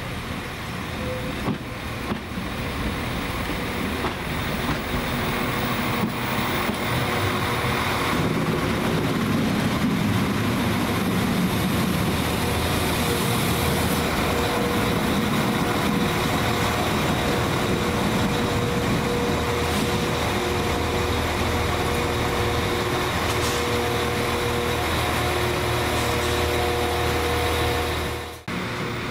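A train running at a station platform, its noise building over the first several seconds and then holding steady, with a faint steady tone coming and going in the second half; it cuts off abruptly near the end.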